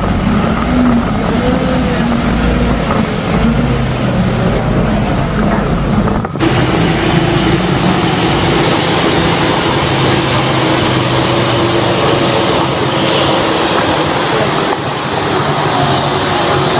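A truck engine running under a loud, dense din, with people's voices in the background. The sound breaks off and changes abruptly about six seconds in.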